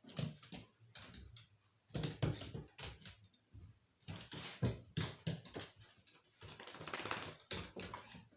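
An exotic shorthair kitten and a griffon dog playing together: irregular quick clicks, taps and scuffles of paws and claws.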